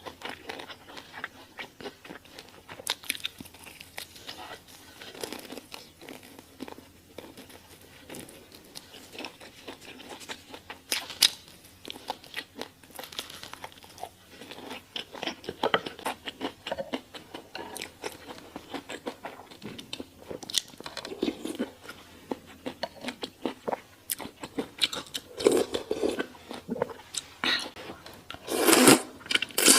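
Close-miked eating: a long run of irregular crunchy bites and chewing, louder near the end.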